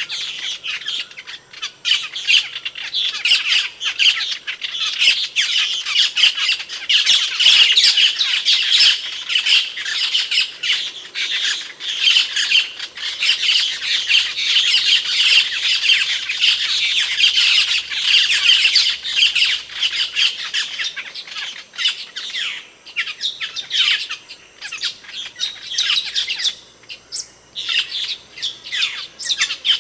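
Asian glossy starlings calling: a dense, continuous chatter of loud, sharp squawks and chirps that overlap one another, thinning out a little about 22 seconds in.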